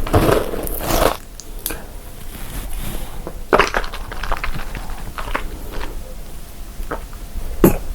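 Person biting and chewing crunchy food close to the microphone: a dense crunching in the first second, then scattered sharp crunches.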